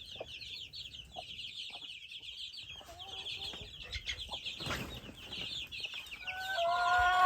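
Chickens in a coop: a dense, continuous chorus of high chick peeping, with short soft hen clucks scattered through it. Near the end a hen gives a longer drawn-out call.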